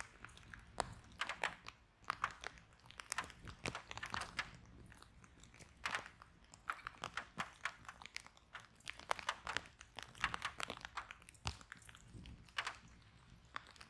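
Wood fire in a fireplace crackling: frequent sharp, irregular pops and snaps over a faint low rumble of the flames.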